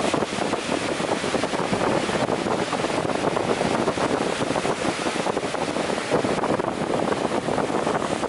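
Ocean waves breaking and washing in, a steady rushing noise.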